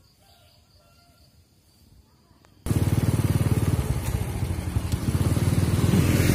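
Faint outdoor ambience, then a motorcycle engine running while riding, which cuts in suddenly and loudly about two and a half seconds in.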